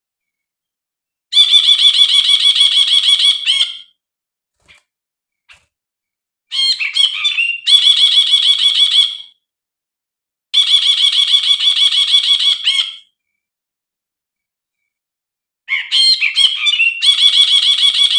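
Brinji bulbul singing in four bursts, each a fast, even trill of repeated notes lasting two to three seconds, with silent gaps between them.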